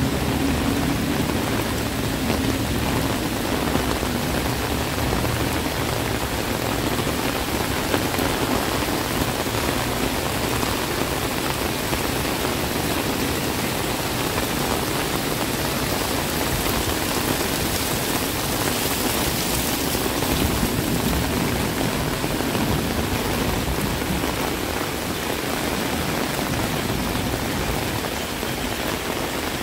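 Heavy rain falling steadily, a dense even hiss of rain on surfaces. A low hum is mixed in during the first few seconds and fades out.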